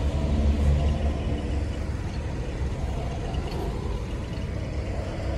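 Freight gondola cars of a work train rolling slowly past at close range: a steady low rumble of steel wheels on the rails, a little stronger in the first second or so.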